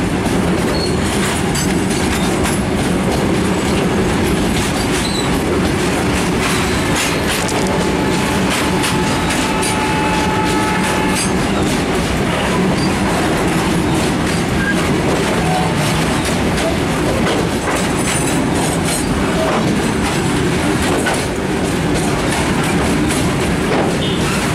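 Heavily loaded freight train's covered wagons rolling past close by, with a steady rumble and wheels clattering over the rail joints. A faint thin wheel squeal rises briefly around the middle.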